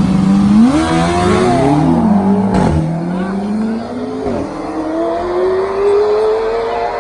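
Engines of a BMW M5 Competition and a motorcycle accelerating hard: two pitches climb and drop across each other at gear changes in the first couple of seconds, then one pitch rises steadily through a long pull.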